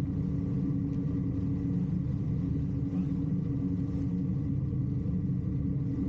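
A sailboat's inboard engine running steadily under way, a low, even drone with a steady tone.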